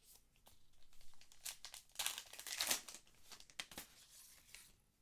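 Trading-card pack wrapper crinkling and being torn open, with cards handled: light crackles and clicks, a longer burst of tearing about two seconds in, a few sharper crackles after it, then quieter near the end.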